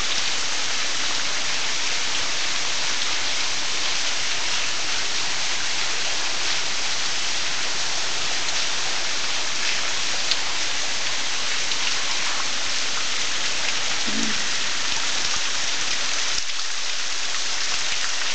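Steady heavy rain falling and pattering on surfaces, an even hiss with scattered drops ticking through it.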